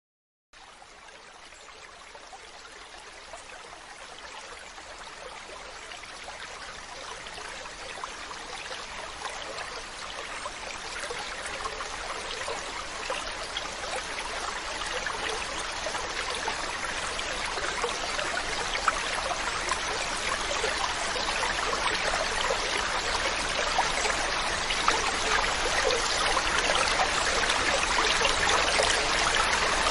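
A waterfall's rushing, splashing water, a steady hiss that fades in from silence about half a second in and grows gradually louder.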